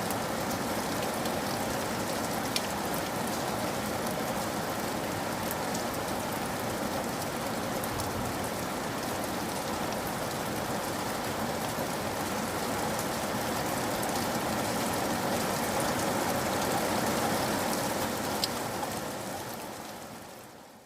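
Steady rain falling, with the odd sharp drop striking close by. It fades out over the last two seconds or so.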